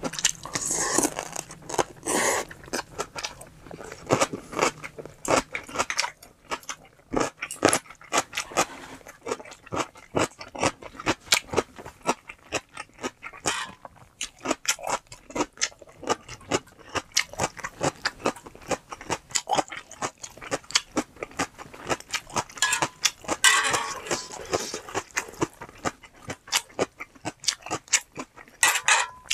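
Close, irregular crunching and chewing of food, several crunches a second, with a louder run of crunches a little past the twenty-second mark.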